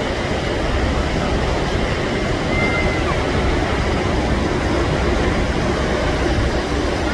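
Steady rushing roar of Multnomah Falls, a waterfall over 600 feet tall, with a low rumble under it.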